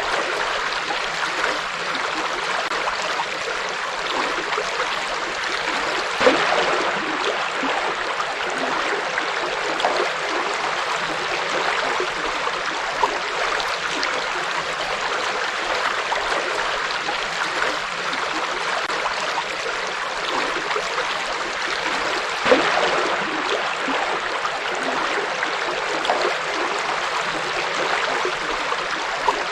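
River water flowing over stones in a steady, even rush with gurgling, and two brief louder splashes, about six seconds in and again about twenty-two seconds in.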